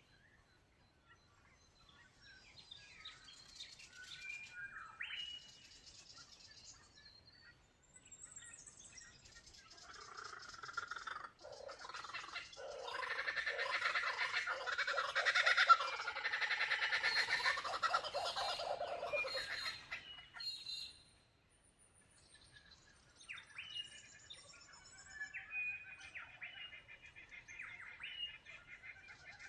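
Birds singing and calling in chirps and whistles, swelling in the middle into a loud, dense chorus of overlapping calls for about eight seconds, then thinning back to scattered song.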